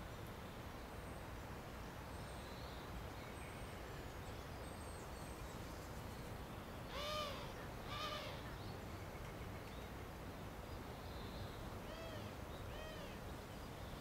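A bird calling: two clear, arched call notes a second apart about halfway through, then two fainter ones near the end, over a steady low background hum.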